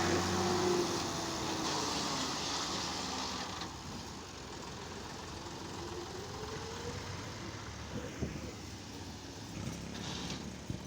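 A motor vehicle's engine running. The sound fades over the first few seconds, then stays steady and low.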